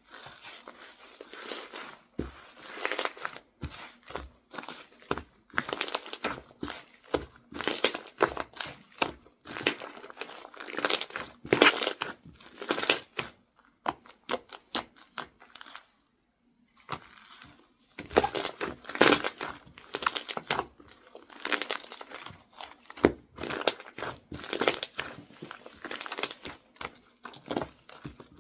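Slime being squished, poked and stretched by hand: rapid clusters of small clicks and pops, with a brief pause a little past the middle.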